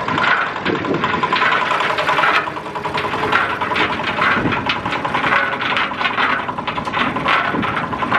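A small engine running steadily, with irregular scraping and knocking sounds on top.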